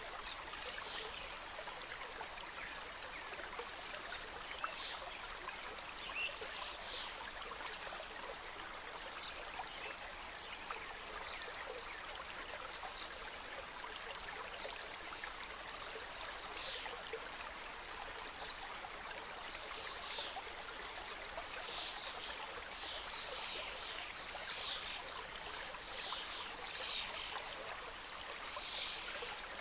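Small mountain stream flowing over rocks: a steady rushing with frequent short, bright splashes and trickles.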